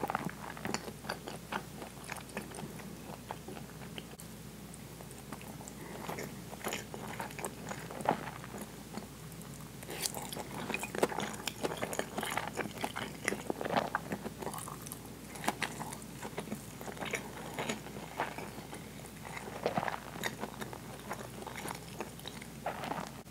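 Close-miked chewing of soft food, rice and soy-braised pork belly, with irregular wet smacks and small mouth clicks.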